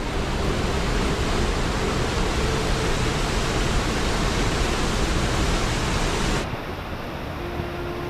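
Steady rush of water from a rain-swollen mountain stream. About six and a half seconds in, the hiss drops away abruptly, leaving a duller, lower rush.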